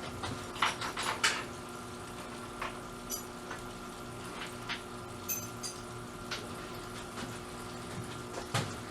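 Small metal tackle-box parts clinking and being moved around in a parts washer's degreaser, with liquid sounds, a few scattered clicks and a steady hum underneath.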